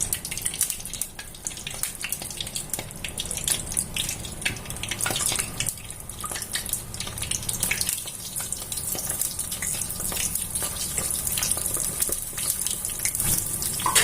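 Soya chunks deep-frying in hot oil: a steady sizzle with dense crackling.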